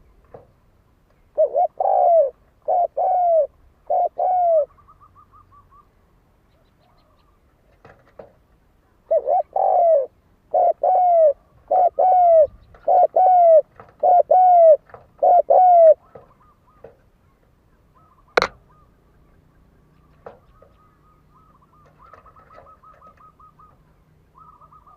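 Spotted dove cooing in two bouts of repeated, downslurred coos, a short bout of about four notes and then a longer run of about ten. A single sharp click comes near the end.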